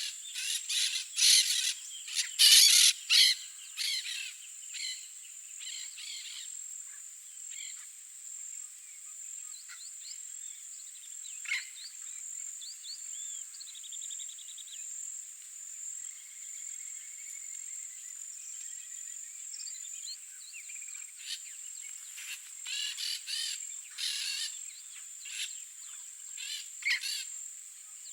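Blaze-winged parakeets giving harsh, scratchy calls in clustered bursts, loudest in the first few seconds and again near the end, with sparser calls in between. Under them runs a steady high-pitched insect drone.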